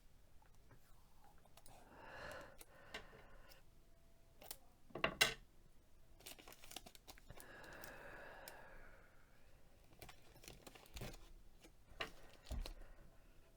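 Tape being pulled off a roll, torn and pressed down onto a mug, with a soft rasp twice and light handling clicks; a sharper click comes about five seconds in and a couple of low knocks come near the end.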